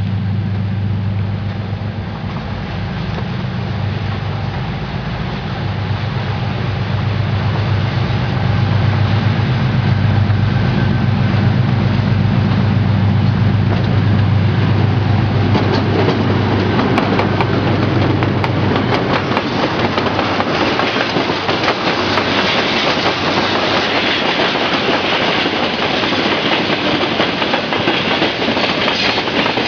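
2TE10UT diesel locomotive's 10D100 two-stroke diesel engines running with a steady low drone as it passes. About halfway through the drone fades and the train's wagons roll by, wheels clattering over the rail joints.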